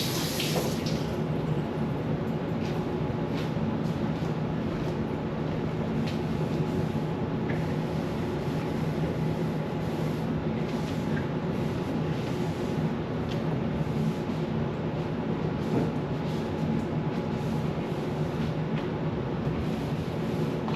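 A steady low mechanical hum with a few faint clicks and knocks now and then. Running water at the start stops about a second in.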